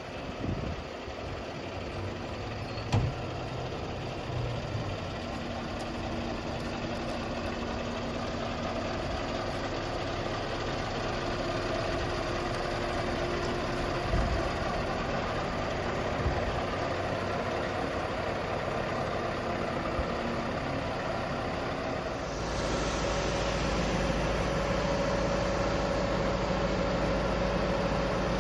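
Scania R520 truck's V8 diesel engine running steadily, slowly growing louder, with a few light knocks. About two-thirds of the way through it steps up suddenly to a louder, deeper running note.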